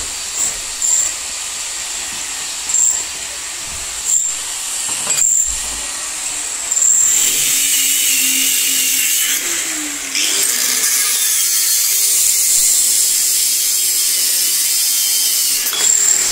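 A power tool running steadily, its sound shifting to a louder, steadier pitch about seven seconds in and changing again near ten seconds, then stopping abruptly.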